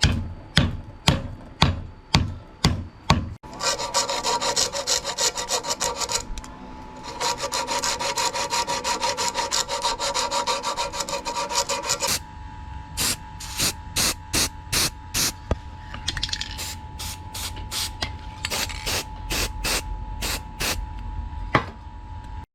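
Rhythmic hand scraping or filing strokes on the cleaver, metal or wood rubbed back and forth against an abrasive. The strokes run at about three a second, turn to a fast dense run a few seconds in, and go back to slower separate strokes about halfway through.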